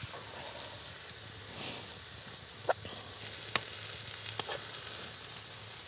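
Minced meat and onions frying in a Trangia pan: a steady sizzle, with three sharp clicks spread through the middle.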